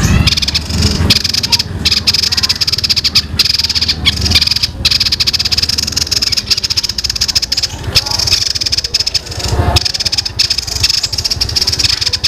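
Small songbird singing a long, unbroken, fast rattling chatter, a dense rolling song that imitates the calls of sparrows fighting.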